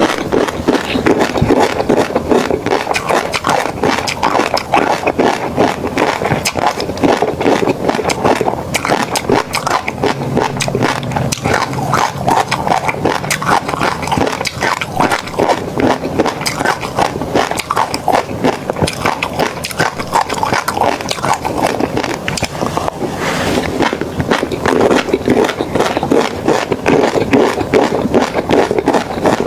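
Close-miked eating sounds: continuous wet chewing, smacking and crackling in the mouth, with no let-up.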